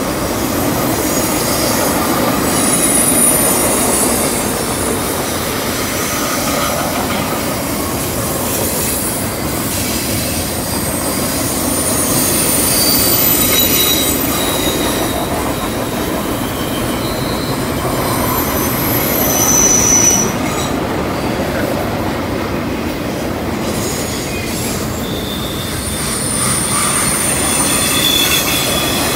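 Double-stack container train's steel wheels rolling over the rails on a curve: a steady rumble, with high-pitched wheel squeals from the curve coming and going.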